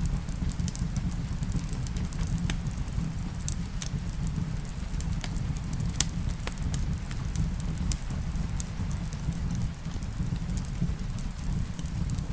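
Wood fire crackling in a fireplace: sharp pops scattered irregularly over a steady low rumble, with the loudest pop about six seconds in.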